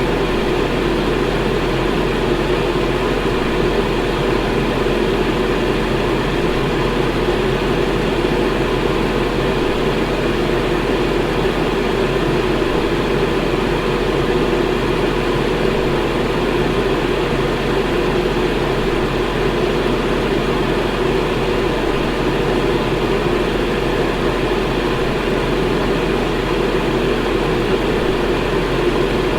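Electric fan running steadily: an even whooshing noise, strongest in the low-middle range, with a low hum beneath.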